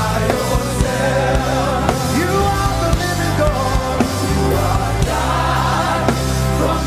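Gospel worship music: sung vocals over a live band with bass and drums, in a steady beat.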